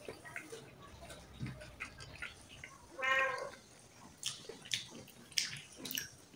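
A cat meows once, about three seconds in, a short pitched call. Light clicks and taps are scattered around it.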